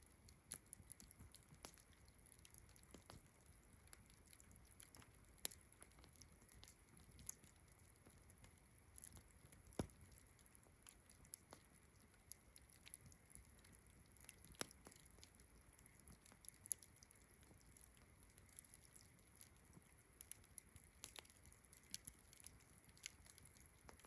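Faint campfire crackling: irregular sharp pops and snaps of burning wood, a few louder ones scattered throughout. A steady high-pitched chirring of crickets runs underneath.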